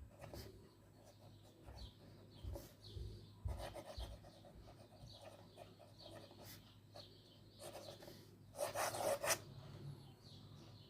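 Old nib of a Soviet "Soyuz" bakelite fountain pen scratching across paper in short, irregular strokes, with a louder, longer scratch about nine seconds in.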